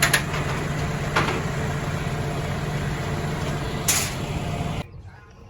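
Car engine running steadily, with a few sharp clicks and knocks over it. The sound cuts off abruptly near the end.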